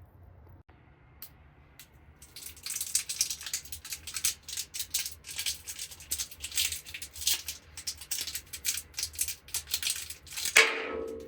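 Rapid, irregular rattling, like small hard pieces being shaken, for about eight seconds, ending with a falling sweep in pitch near the end.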